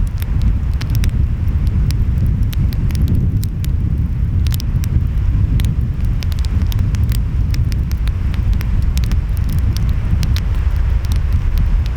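Wood fire crackling, with many irregular sharp pops and snaps, over a steady deep rumble of surf and wind.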